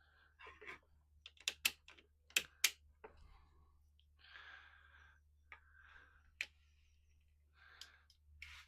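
Sharp plastic clicks and taps of a battery jump starter pack and its leads being handled, a quick run of them about one and a half seconds in, with softer rustling handling noise later.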